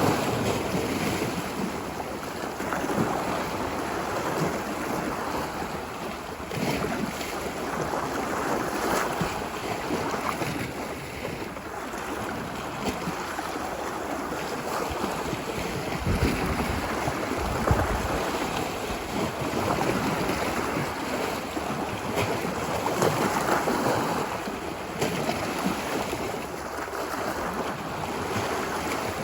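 Ocean waves washing ashore on a beach, a steady surf wash that swells and ebbs every few seconds, with a deeper rumble about halfway through.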